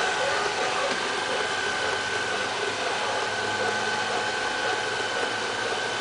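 LL-A320 robot vacuum cleaner running, its motors giving a steady whir with a constant high whine.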